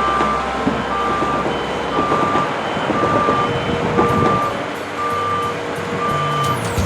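Reversing alarm of a construction vehicle beeping about once a second, a single steady tone, over engine noise and scattered knocks of machinery at work.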